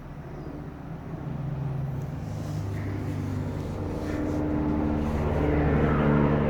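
An engine running with a steady low hum that slowly grows louder.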